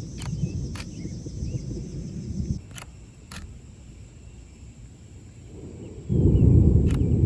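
Strong wind gusts buffeting the microphone in a thunderstorm, a low rumbling roar. The roar drops away suddenly about two and a half seconds in and slams back louder about six seconds in. A few sharp clicks are scattered through it.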